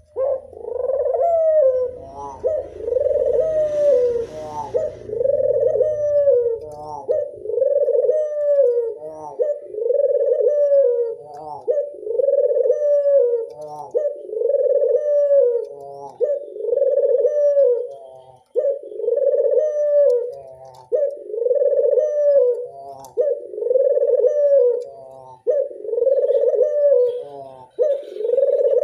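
Local puter dove (ringneck dove) giving its anggungan cooing song: a long unbroken series of coos, about one every second and a quarter, each rising and then falling away at its end.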